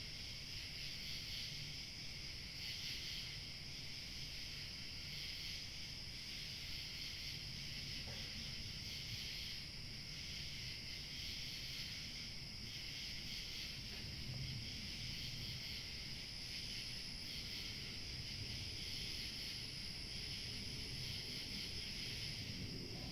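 A chorus of crickets chirping steadily, with a low rumble of light wind beneath it.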